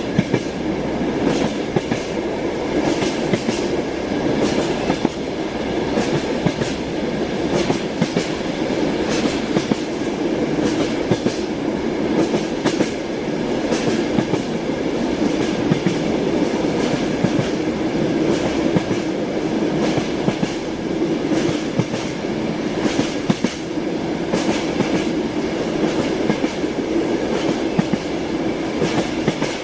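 Train running steadily: an even rumble with the clickety-clack of the wheels over the rail joints.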